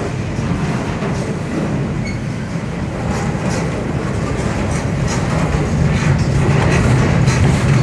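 Freight train cars rolling past with a steady rumble, the wheels clicking and clacking over the track, the clacks growing more frequent in the second half.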